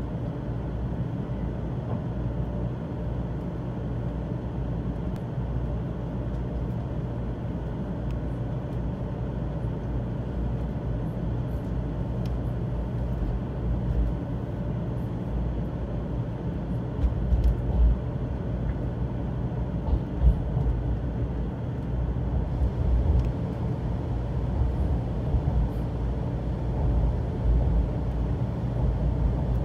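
Inside the cabin of a Shinkansen train pulling out of a station and gathering speed: a steady low rumble from the running gear and motors, with a few heavier low thumps about two-thirds of the way through.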